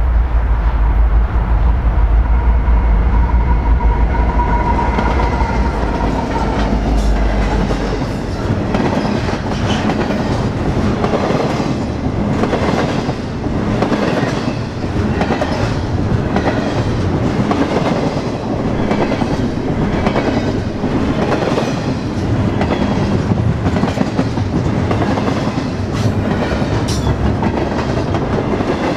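A train passing close by: a heavy low rumble with a steady whine for the first several seconds as the locomotive goes by, then the cars' wheels clicking rhythmically over the rail joints, clickety-clack.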